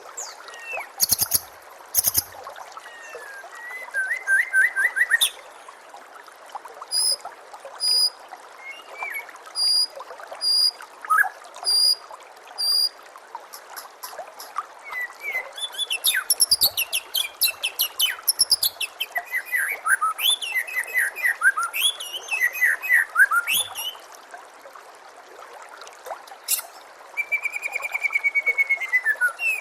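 Songbird song of the kind used to train white-rumped shamas (murai batu): varied phrases, with a run of sharp high chips about once a second, then fast trills and down-sliding whistles. Beneath it runs a steady trickle of water.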